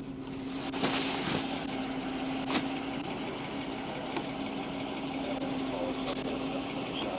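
Vehicle engine idling with a steady hum, with a few short sharp clicks or knocks, the loudest about a second in and two and a half seconds in.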